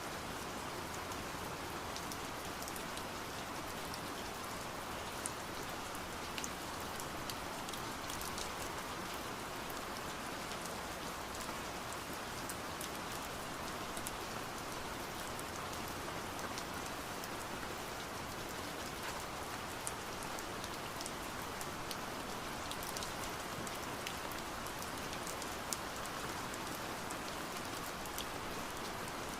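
Steady rain on window glass: a constant hiss of rain with many sharp drop taps scattered throughout.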